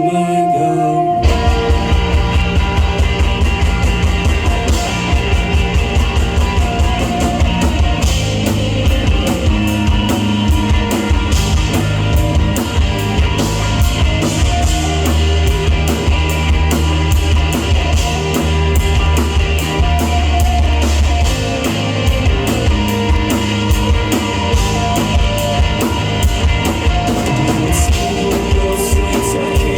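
Live full rock band playing an instrumental passage: electric guitars and bass over a steady drum-kit beat, which comes in about a second in.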